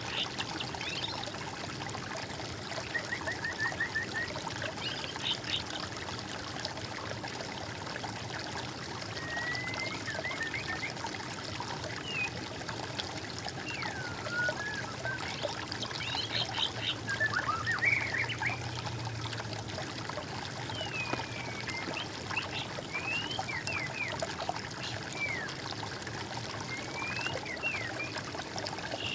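Water trickling steadily, with small birds singing short chirps, rapid trills and whistled gliding notes scattered throughout.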